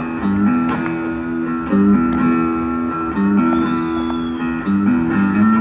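Live band music: guitar playing sustained chords that change about once a second, over a held bass line.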